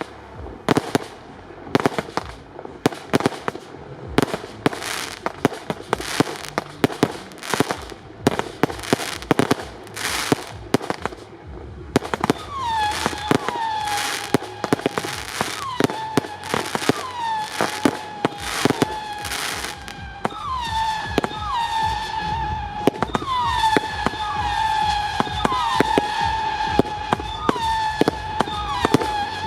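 Fireworks display: a rapid, continuous string of bangs and crackling bursts. From about halfway through, many overlapping whistles join in, each dropping in pitch and then holding.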